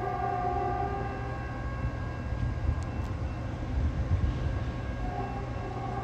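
Steady low rumble of rail traffic with several steady whining tones; the tones fade about a second in and return about five seconds in.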